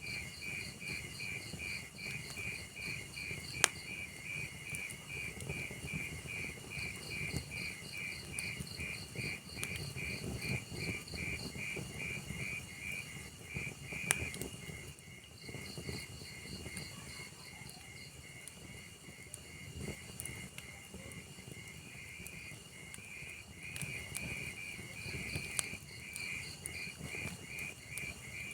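Wood fire burning with a low crackle and three sharp pops, under crickets chirping steadily in a fast, even rhythm.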